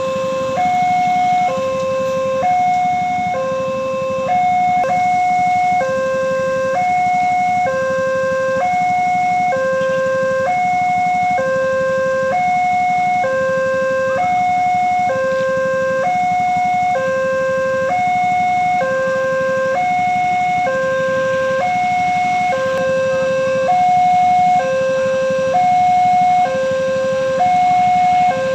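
Railroad level-crossing warning signal sounding its electronic two-tone alarm, alternating a lower and a higher tone in an even cycle about every two seconds. It is the sign that a train is approaching the crossing.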